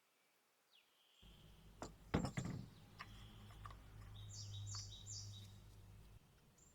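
Birds chirping faintly in the background. About a second in, a low hum starts, with a cluster of sharp knocks about two seconds in, and cuts off near the end.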